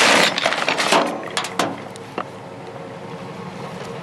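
Junk and scrap metal being handled and shifted: a loud rustling clatter at the start and a few short knocks over the next two seconds. A steady background hum follows.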